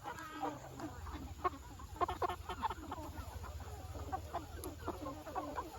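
Chickens clucking, many short calls from several birds, over a low steady hum.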